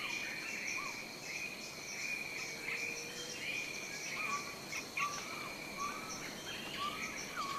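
Tropical forest dawn chorus: a steady, pulsing insect chorus, with scattered short rising calls over it.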